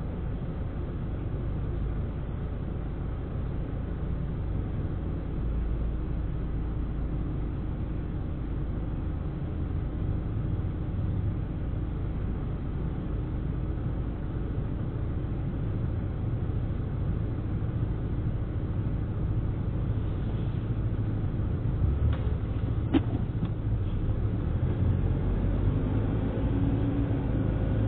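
Car engine idling at a standstill, heard from inside the cabin as a steady low rumble that grows a little louder near the end as the car moves off. One sharp click near the end.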